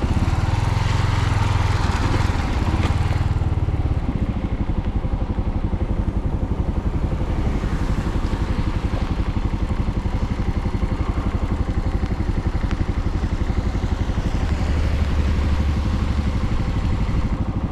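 Suzuki TU250X single-cylinder motorcycle engine running steadily while riding, with louder, heavier stretches near the start and again about fifteen seconds in.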